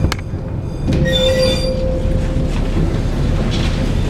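Former London Underground tube carriage running on the track, a steady noise of wheels on rail. There are two sharp clicks, at the start and about a second in, as the wheels cross rail joints, and after the second click a brief high wheel squeal lasting about a second.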